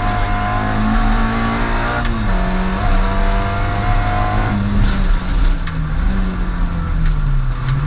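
Rally car's engine running hard at high revs, heard from inside the cabin. Its pitch drops and climbs again several times as the driver shifts and lifts.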